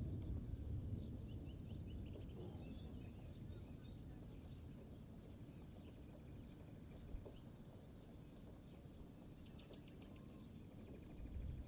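Distant thunder rumbling low, loudest at the start and swelling again near the end, while small birds chirp and twitter throughout.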